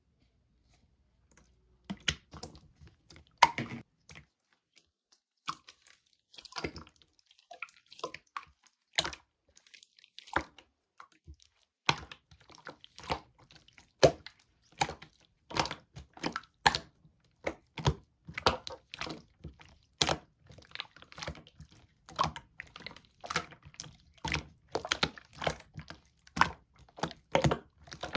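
Clear slime being squeezed and pressed by hand, giving a run of sticky clicks and pops. They come sparsely at first, then steadily about twice a second from around twelve seconds in.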